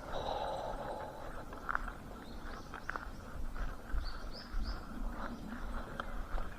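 Outdoor ambience with scattered short clicks and crackles, and a small bird chirping three times in quick succession about four seconds in.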